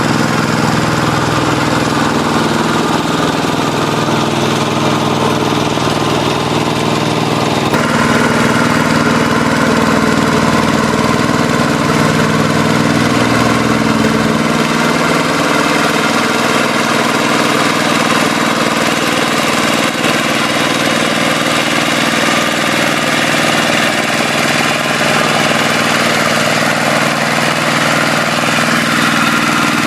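Hand tractor's single-cylinder diesel engine running steadily. The sound shifts abruptly about eight seconds in.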